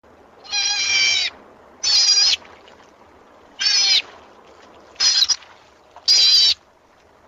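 An animal giving a repeated high-pitched call, five calls of about half a second each, roughly every second and a half.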